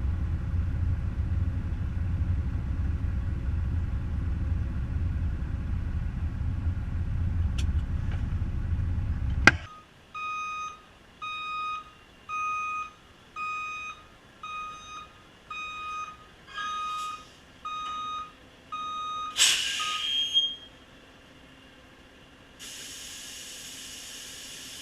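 Semi truck's diesel engine running steadily, then cutting off abruptly. About a dozen electronic beeps follow, roughly one a second, then a short sharp hiss and a steady hiss near the end.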